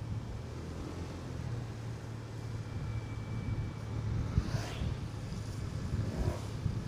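Motorcycle engine running steadily while riding, a low even hum. A brief rising sweep comes about halfway through.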